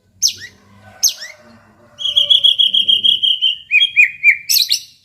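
White-rumped shama (murai batu) singing: two sharp falling whistled notes, then a fast run of repeated high notes, about eight a second, for a second and a half. It ends in a few lower falling notes and a short harsh note near the end.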